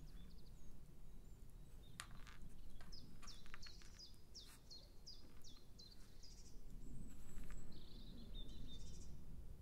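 A bird calling faintly in the background: a quick run of about seven high chirps that each drop in pitch, then a few more scattered chirps later on. A few small clicks of wooden and glass beads being handled on fishing line come just before the run of chirps.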